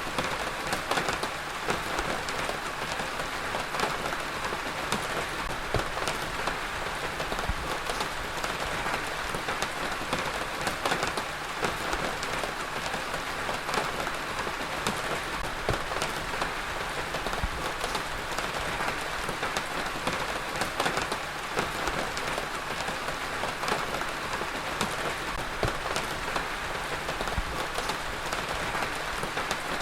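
Heavy rain falling steadily on a surface, a dense even hiss with many small drop impacts pattering through it.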